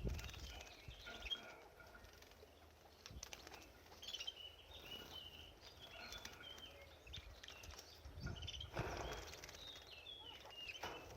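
Canary bathing in a birdbath: small splashes and wing-flutters in the water, a few louder splashes, and short high chirps scattered throughout.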